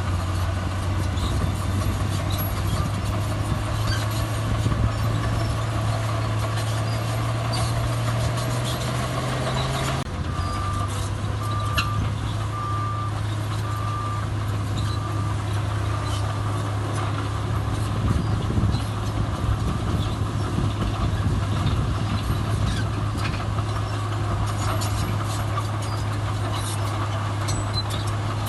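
Heavy diesel earthmoving machinery running steadily. About ten seconds in, a reversing alarm beeps about six times, roughly once a second, for some six seconds.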